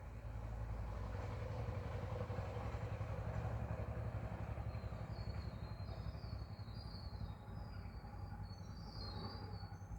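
A steady low rumble, louder in the first half, with a small bird twittering in quick high chirps from about halfway through.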